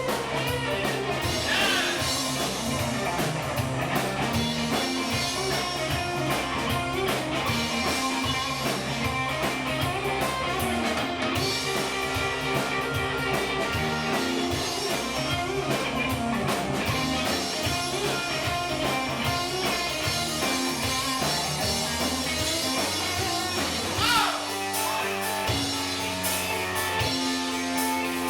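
A live rock band playing a song with no singing: guitar over bass and drum kit. About 24 seconds in there is a loud accent, after which the low end thins and the guitar plays sparser single notes.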